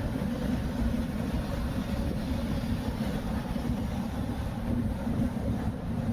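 Steady road noise inside a moving car: a low, even rumble from the engine and the tyres.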